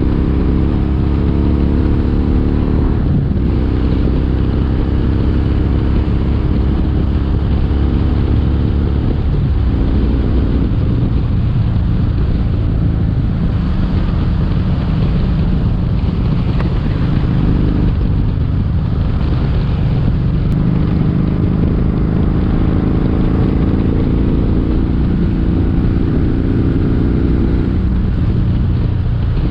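Kawasaki Vulcan 1700 Vaquero's V-twin engine running under way on the road. Its note rises and dips, with a few short breaks in the pitch.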